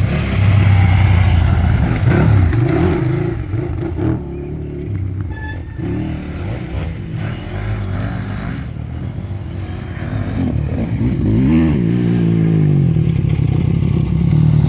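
KTM 950 Adventure's V-twin engine revving and easing off under a rider. It is loud at first, drops back for several seconds, then builds again with the pitch climbing near the end.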